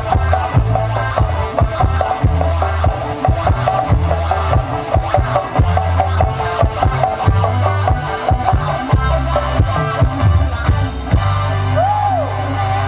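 Music with a fast drum beat and heavy bass played loud through a demo PA sound system with subwoofers. About 11 seconds in, the drums drop out and a held bass note remains, with a short gliding tone over it.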